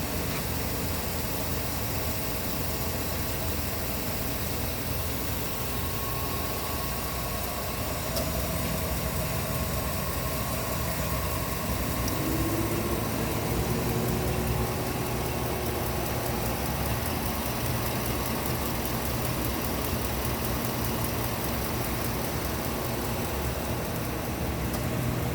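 The 5.3-litre V8 of a 2007 Chevrolet Silverado 1500 idling steadily. About twelve seconds in, its note rises a little and then holds at the higher pitch.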